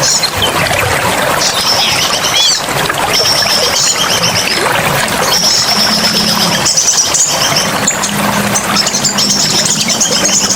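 Forest ambience of steadily rushing water, with birds calling over it in many short, high, rapidly pulsed trills.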